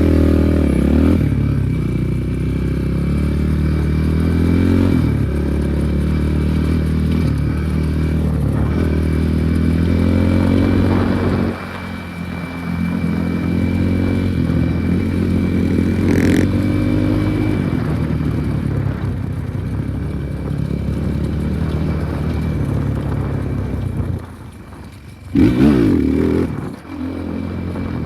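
Enduro motorcycle engine running under way, its pitch repeatedly climbing and dropping back as it accelerates and shifts gears. Near the end it falls quieter, then gives one short loud rev that rises and falls.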